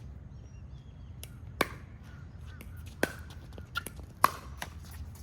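Pickleball paddles striking a plastic pickleball in a rally: four sharp pops with a short ring, the loudest near the end, among fainter clicks.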